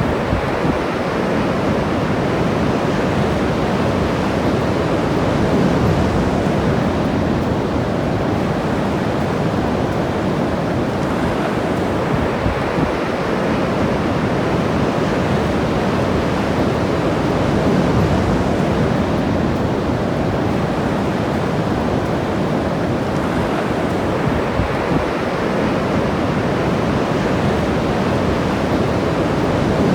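Ocean waves breaking and washing onto the beach, a steady rushing surf that swells and eases every several seconds, with some wind on the microphone.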